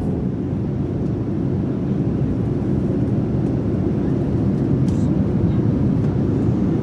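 Steady low rumble of an airliner heard inside the passenger cabin, growing slightly louder.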